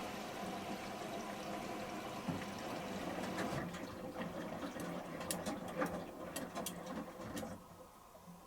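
Samsung washing machine taking in water for its final rinse: a steady rush of water with some sharp splashes and clicks in the second half, cutting off suddenly about seven and a half seconds in.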